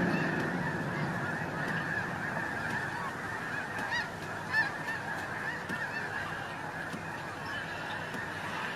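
A large flock of geese calling all at once: a continuous din of many overlapping honks, with a few nearer calls standing out about halfway through.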